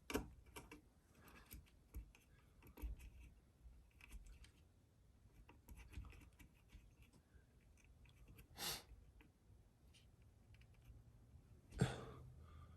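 Faint scattered clicks and small scrapes of a paint-stuck ceiling-fan screw being worked loose by hand, with one short, louder scrape a little before the end.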